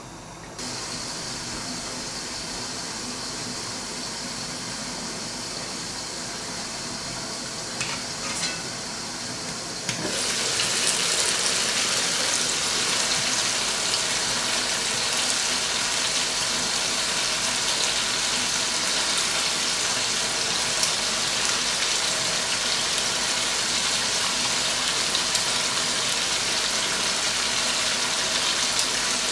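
Chicken and tomatoes sizzling in a karahi over low heat: a steady hiss, muffled at first, that steps up louder and brighter about ten seconds in. There are a couple of small clicks just before the change.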